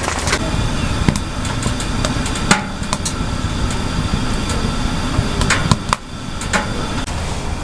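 Heavy rain pouring steadily, with scattered sharp clicks and taps through it.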